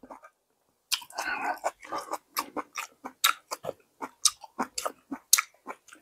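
A person chewing a mouthful of sujebi (soft hand-torn dough in perilla-seed soup): a quick, irregular run of mouth clicks and smacks that begins about a second in.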